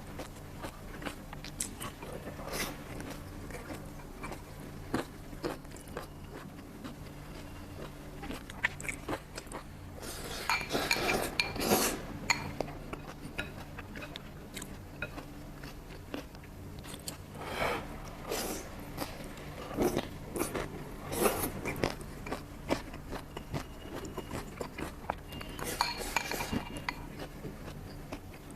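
Kitchen utensils and dishes knocking and clinking now and then during food preparation, with a denser cluster of clatter about ten seconds in and a low steady hum underneath.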